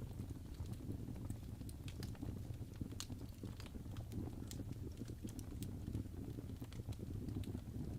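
Crackling fireplace: a steady low rumble of burning wood with sparse, irregular sharp pops and crackles.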